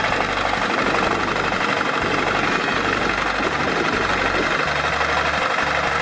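Tractor engine running steadily with a rapid, even pulse.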